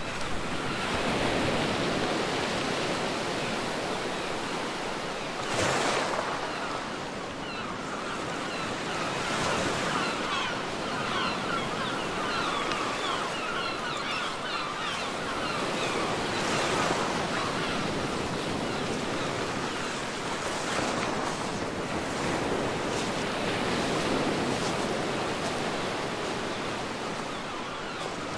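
Sea waves washing onto a beach in a steady wash, with one louder breaking surge about six seconds in and a fizzing crackle of receding water in the middle.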